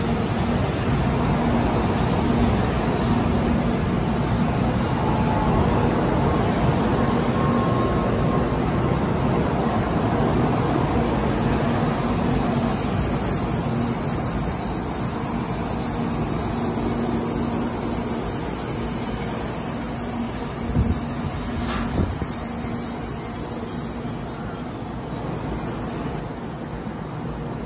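N700A Shinkansen train pulling out of the station, with a steady running noise of wheels on rail, a low hum and a high whine from the traction equipment. Two brief knocks come near the end, and the sound eases slightly as the last car goes by.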